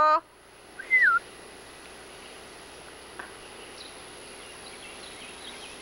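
A single short whistled bird call about a second in, sliding down in pitch. It sits over a steady outdoor background hiss.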